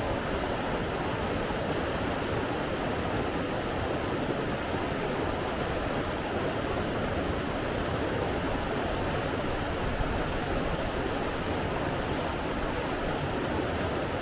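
Steady rushing water, an even, unbroken noise with no swells.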